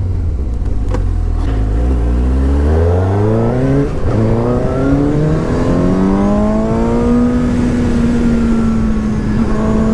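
Suzuki GSX-S750's inline four-cylinder engine revving up under hard acceleration, with a short dip for an upshift about four seconds in, then climbing again and holding high revs near the top end.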